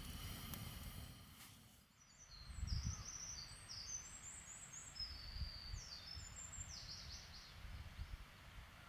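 Small birds chirping in quick, short notes, over a low wind-like rumble. The chirping starts about two seconds in, after a different, steadier sound stops abruptly, and thins out near the end.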